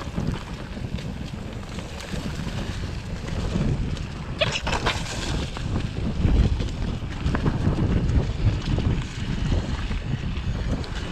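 Wind buffeting the microphone over the rumble and rattle of a mountain bike riding down a rough trail, with a burst of sharp clattering about four and a half seconds in.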